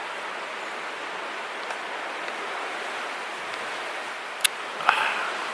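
Steady rushing noise of strong wind and surf, with two sharp clicks about a second before the end.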